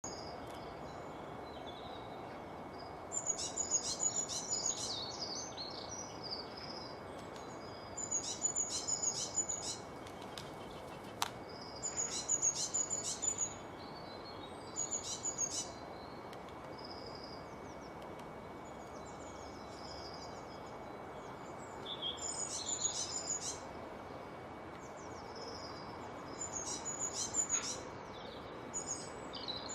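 Small birds chirping in bursts of high, rapid twittering, each a second or two long, recurring every few seconds over a steady background hiss. One sharp click about a third of the way in.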